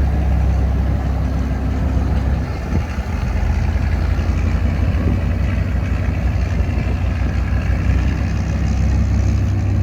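Boat engine running steadily with a loud low hum, dipping briefly about three seconds in.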